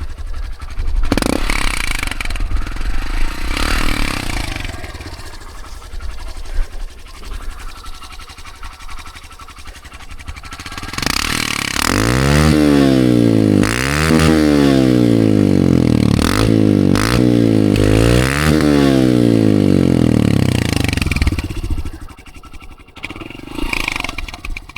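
Small dirt bike engine and exhaust, running low with rattles and wind noise at first, then revving hard from about halfway through, its pitch climbing and falling back several times over about ten seconds before easing off near the end.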